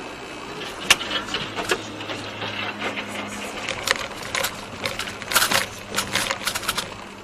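A steady low vehicle hum with a run of irregular sharp clicks and ticks over it, thickest near the end.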